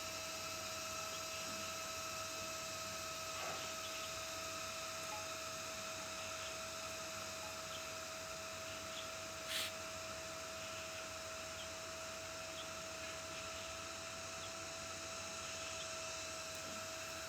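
A steady high-pitched electrical whine over a constant hiss, with a single short click about ten seconds in.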